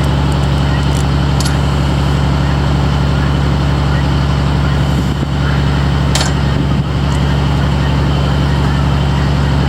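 Steady low drone of a vehicle's engine and road noise heard from inside the cab while driving, with a few faint clicks.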